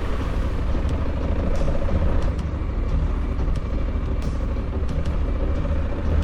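Honda Africa Twin 1100's parallel-twin engine running steadily as the motorcycle rides a muddy, rocky trail, with scattered light ticks over it.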